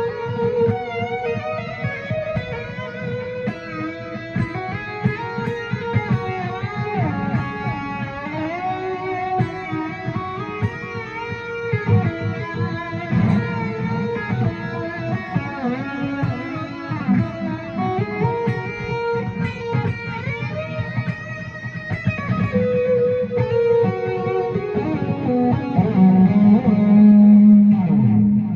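Electric guitar improvising a melody in D Lydian, sliding between notes over a rhythmic low accompaniment, ending on a louder held low note.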